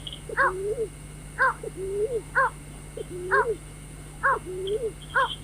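White-breasted waterhen calls repeated about once a second: each is a short sharp note followed by a hoot that rises and then falls. Faint high chirping runs under the first moment and again near the end.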